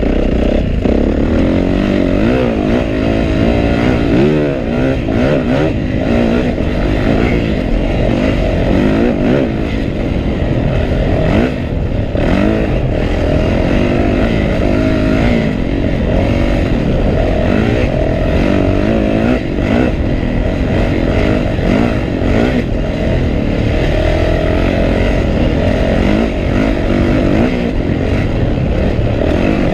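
2012 Yamaha YZ450F's 450 cc four-stroke single-cylinder engine under way on a dirt trail, its pitch rising and falling over and over as the throttle is opened and closed through the gears. Heard close up from a helmet chin mount.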